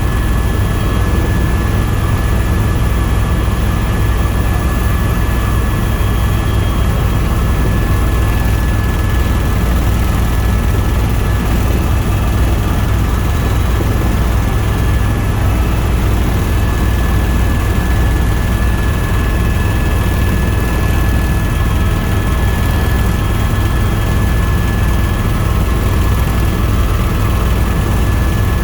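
Tour helicopter in flight, heard from on board: a loud, steady drone from the rotor and turbine with a constant high whine above it.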